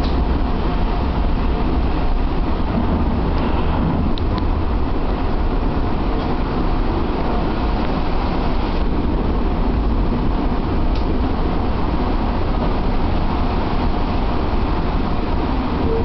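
Steady rushing roar of the flood-swollen Tama River's fast-flowing water.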